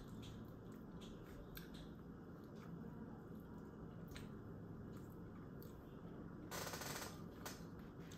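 Close-miked chewing and mouth smacks while eating a chicken wing: scattered soft clicks, with a brief louder rush of noise about six and a half seconds in.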